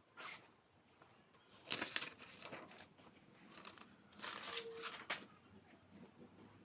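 Scratchy rubbing on paper in three bursts: a short one at the start, then longer ones about two and four seconds in.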